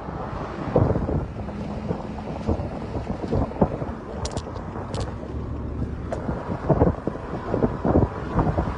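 Gusty wind buffeting the microphone, a rough rumbling rush that rises and falls, with a few faint ticks partway through.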